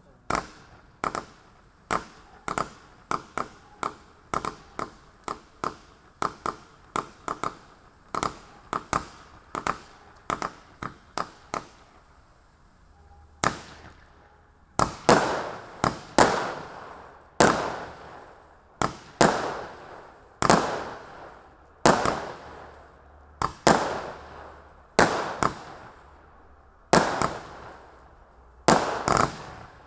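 A 92-shot mixed-tube consumer firework cake firing shot after shot: a quick run of sharp pops about two a second, a brief pause about twelve seconds in, then louder booms with longer tails about one every second and a half.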